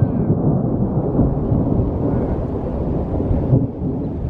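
Thunder from a supercell thunderstorm, a loud, continuous low rumble.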